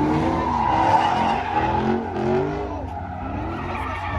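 Car burnout: tyres squealing steadily while the engine revs up and down over and over.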